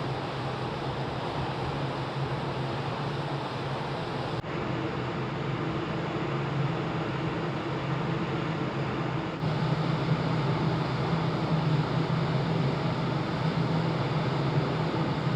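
Steady drone of a large car ferry under way: a low engine hum under rushing wind and water noise. The sound changes abruptly twice, about four and nine seconds in.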